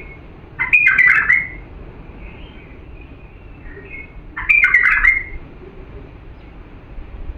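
A bulbul singing two short, quick, liquid warbled phrases about four seconds apart, with soft single notes between them. This is the clean song that keepers play to teach young bulbuls.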